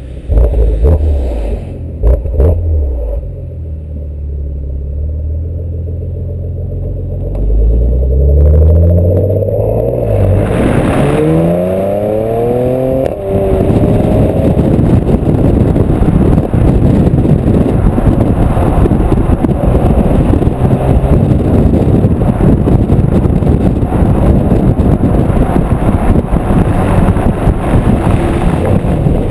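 Porsche Macan Turbo's twin-turbo V6 through its sport exhaust: a steady low engine note, then the pitch climbs for a few seconds and drops off suddenly about thirteen seconds in, followed by a loud steady rush to the end.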